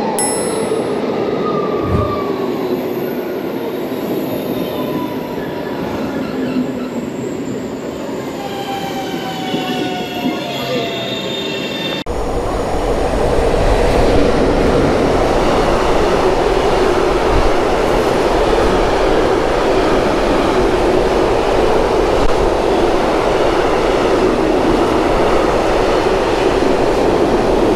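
A Pendolino high-speed electric train passes at speed, its whine gliding down in pitch. About twelve seconds in, it gives way to a louder, steady rumble of a PKP Cargo electric locomotive and a long string of open freight wagons rolling through on the rails.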